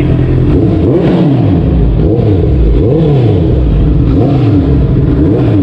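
Honda CB650R inline-four engine, through a Two Brothers full exhaust system, being revved with repeated throttle blips. It rises and falls in pitch about four or five times, loud.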